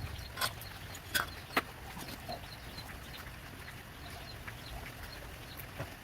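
A few sharp clicks or taps, three in the first two seconds, over a low steady background with faint small chirps.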